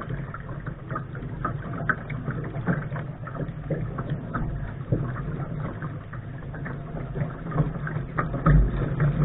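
Water washing against the hull of a Lark sailing dinghy under way: a steady rush over a low rumble, with many small scattered slaps and knocks.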